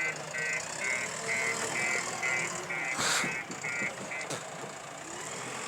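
JCB 3DX backhoe loader's reversing alarm beeping steadily, about two beeps a second, while the machine backs up; it stops a little after four seconds in. A single sharp clank sounds about three seconds in, over the machine running.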